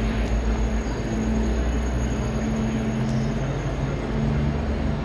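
Low steady hum of a train standing at the platform, over the general din of a busy railway station concourse.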